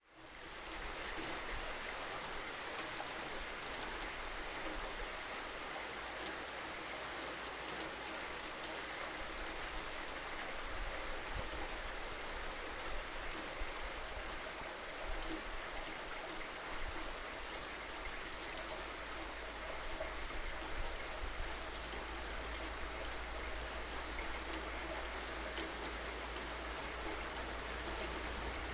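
Steady rain falling, an even hiss with small spikes of louder drops, over a low rumble. It fades in at the very start.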